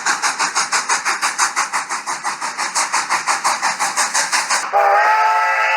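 Steam train chugging in a fast, even rhythm of about five or six chuffs a second, then a steam whistle sounding a steady multi-tone chord from about 4.7 seconds in.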